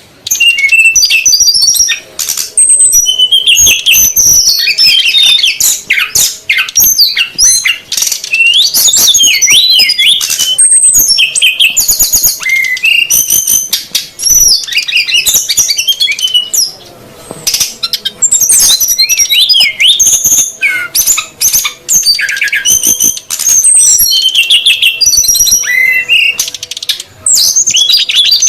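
Bird-lure recording of SRDC males and females calling noisily together: a dense, continuous run of loud high-pitched chirps, quick trills and rapidly repeated notes, with sharp clicks among them and a faint steady hum underneath.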